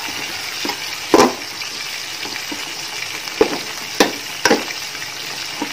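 Onion-tomato masala with spice powders sizzling in an aluminium pot while a metal spatula stirs it, scraping and clinking against the pot several times over a steady hiss. The masala is being sautéed until the raw smell of the spices goes.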